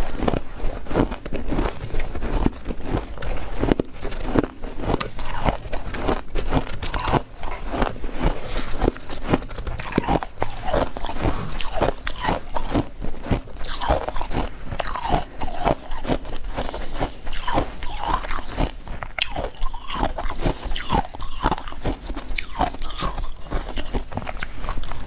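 Freezer frost being bitten and chewed up close, with dense, irregular crunching.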